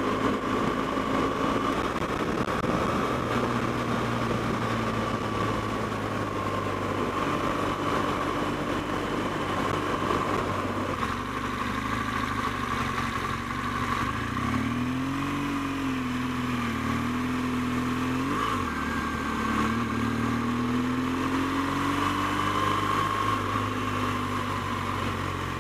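BMW R1200GS flat-twin engine running on the move, its pitch dipping and rising for a few seconds past the middle as the revs change.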